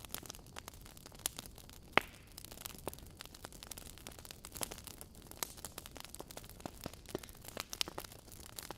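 Wood fire burning in a fireplace: logs crackling with irregular sharp pops and snaps over a faint steady hiss, one louder pop about two seconds in.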